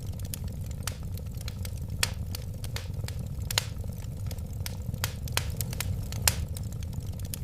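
Wood fire crackling: irregular sharp pops and snaps, a few louder than the rest, over a steady low rumble of flames.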